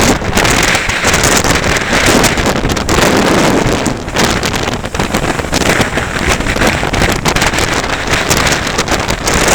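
Strong wind blowing across the camera's microphone in loud, buffeting gusts, easing briefly about four seconds in.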